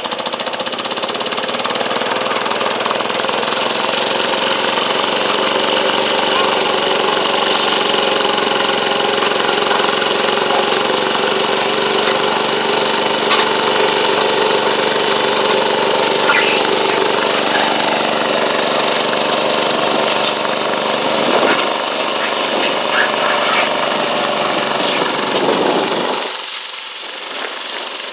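Garden tractor engine running hard and steady under load as it drags a stoneboat, easing off near the end.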